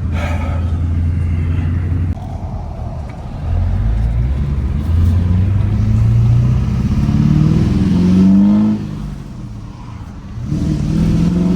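2004 LB7 Duramax 6.6-litre V8 turbodiesel through a 5-inch exhaust, pulling under acceleration with its manual gearbox: the engine note climbs for about five seconds, drops off sharply at a gear change, then climbs again near the end.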